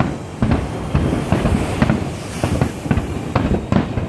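Japanese Nagaoka aerial firework shells bursting in a rapid barrage, about three sharp booms a second in uneven succession.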